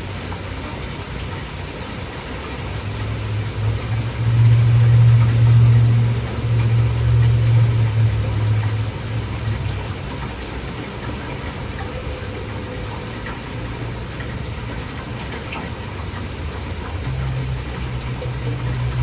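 Heavy rain pouring steadily, with a deep low rumble that swells for several seconds from about three seconds in, and again briefly near the end.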